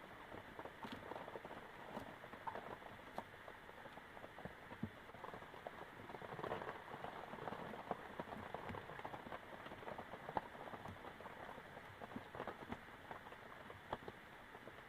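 Steady rain pattering, with many small scattered taps and clicks.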